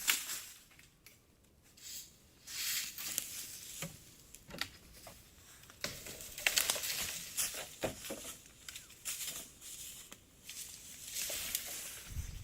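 Irregular rustling and crackling with scattered sharp clicks, in uneven bursts that come and go.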